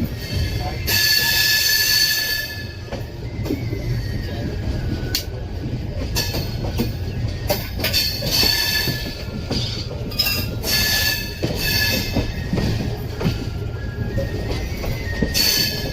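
Humsafar Express running on the track with a steady low rumble. High-pitched wheel squeal rises and fades several times over it.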